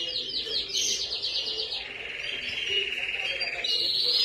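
Canary singing: a string of fast trills of rapidly repeated notes, dropping to a lower, buzzier trill about two seconds in and switching to a higher trill near the end.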